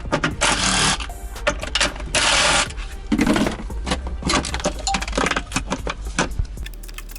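Quick metallic clicks and clinks from small parts and tools being handled, with a few short bursts of rustling, hissing noise, about half a second in, about two seconds in and near three seconds in.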